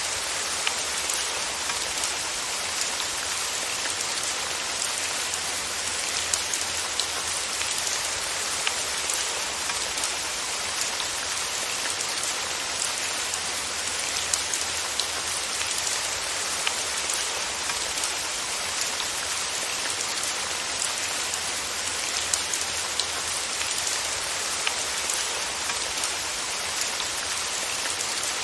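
Steady rain falling, a constant hiss with many small drop patters throughout.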